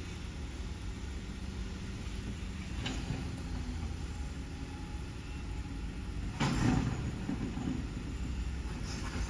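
A heavy diesel truck engine runs steadily with a low rumble. A brief, louder clatter comes about six and a half seconds in.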